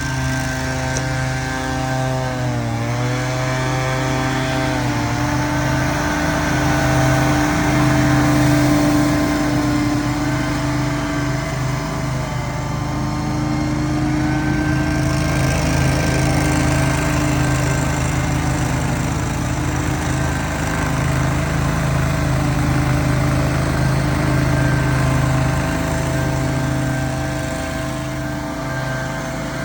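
Small petrol engines of lawn equipment running steadily, the main one dipping briefly in speed several times and picking back up.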